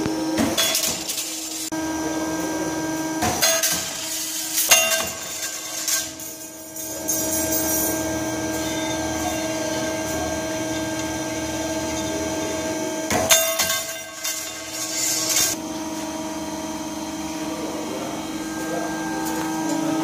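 Wire ring bending machine running with a steady motor hum, broken by bursts of metallic clicks and knocks from the wire being bent and cut, about a second in, around four to five seconds in, and again near the thirteen- to fifteen-second mark.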